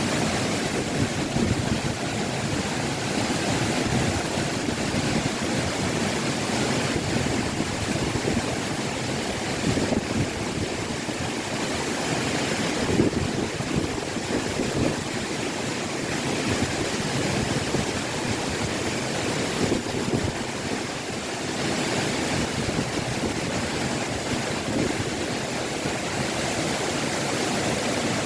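Waterfall rushing, a dense, steady wash of water noise.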